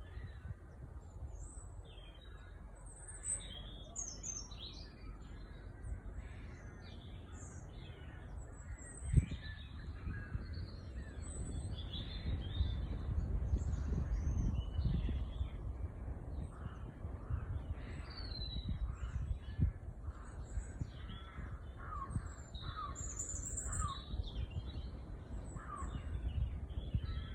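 Small birds chirping and twittering, with many short, high calls overlapping. Near the end there is a run of short falling calls, lower in pitch. A low rumble runs underneath, and a single bump about nine seconds in is the loudest sound.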